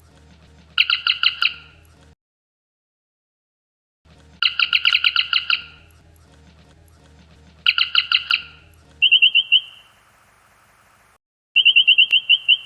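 Star Trek Kelvin-timeline communicator chirp sound effect: five short, rapid electronic warbling trills that sound like bird chirps. The first three are fuller and multi-tone, and the last two are single, slightly higher-pitched trills.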